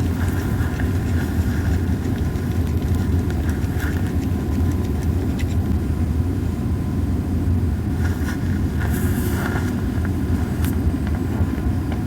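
Campfire of dried Japanese cypress cones burning with a steady low rumble and only sparse, small crackles and pops, plus a couple of brief hissing flare-ups.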